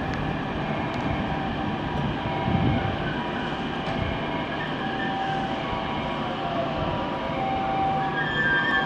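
A train moving slowly through station platforms, with steady rumbling and high wheel squeal that wavers and grows stronger near the end.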